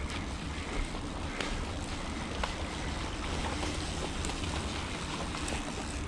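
Wind buffeting the microphone over a steady rush of water, with a few faint clicks.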